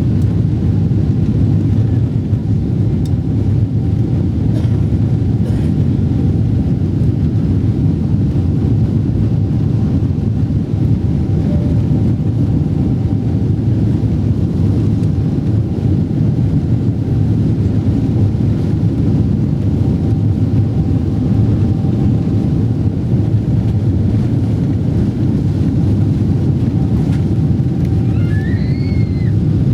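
Steady cabin noise inside a Boeing 777-300ER in flight: a loud, deep rush of airflow and engine noise with a faint steady hum above it. A brief higher-pitched warbling sound comes near the end.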